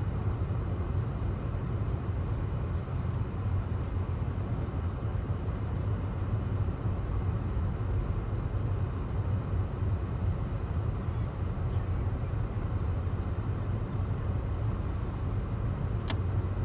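Steady low rumble of road traffic. A single sharp click comes about a second before the end.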